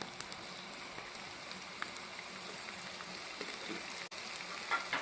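Ginger-garlic paste sizzling in a little hot oil in a non-stick frying pan: a steady, soft frying hiss with a few faint crackles.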